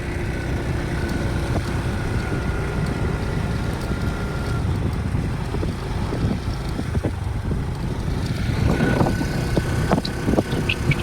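A vehicle's engine running steadily on a rough off-road track, with wind buffeting the microphone. A few short sharp clicks come in near the end.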